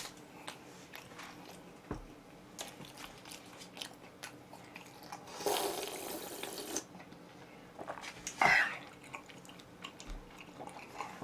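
Quiet eating sounds from someone eating oven-roasted chicken: soft chewing with small clicks and taps, and a brief hissing rush about five and a half seconds in.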